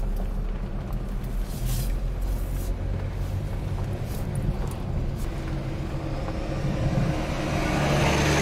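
2011 VW Jetta 2.0-litre turbodiesel running while driving, engine and road noise building over the second half as the car picks up speed, with a faint high whine near the end. The car is pulling with full power, out of its earlier low-power limp mode.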